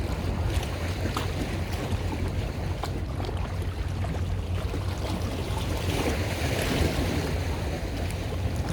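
Wind buffeting the microphone over the sound of water and waves, with a steady low rumble and a slight swell in the water noise about six seconds in.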